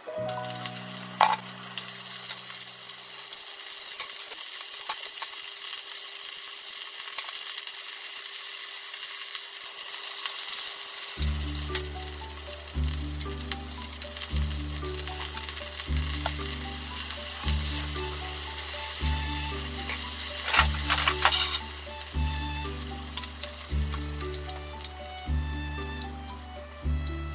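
Shrimp sizzling as they fry in a frying pan, stirred with chopsticks. Background music with a steady beat comes in about eleven seconds in.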